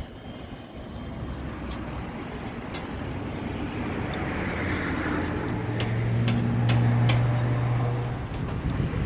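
A motor vehicle's engine running and growing louder, with a steady low hum for a couple of seconds past the middle and a few sharp clicks.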